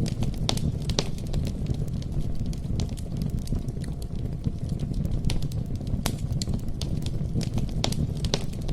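Campfire burning: a steady low rumble with scattered sharp pops and crackles at irregular intervals.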